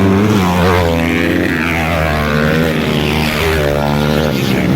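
Motocross bike engines revving as the bikes race, their pitch rising and falling repeatedly over a steady low drone.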